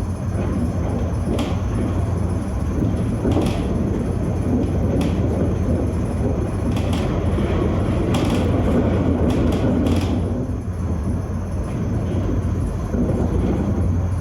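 A Vienna tram running on its rails, heard from on board: a steady low rumble with several short sharp clicks and knocks from the wheels.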